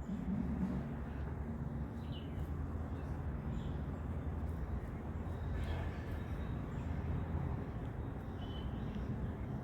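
Outdoor ambience: a steady low rumble with a few faint, short high chirps, like distant birds.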